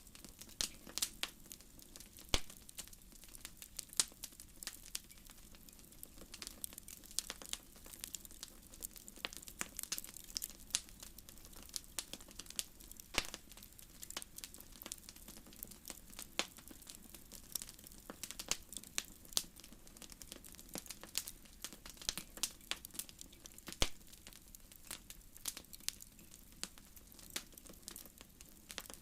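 Wood fire crackling: irregular sharp pops and snaps over a soft steady hiss, some pops louder than the rest.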